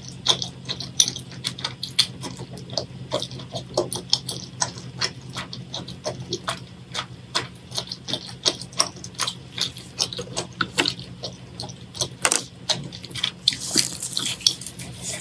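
Close-miked chewing of saucy seafood: wet, sticky mouth clicks and smacks several times a second, over a steady low hum.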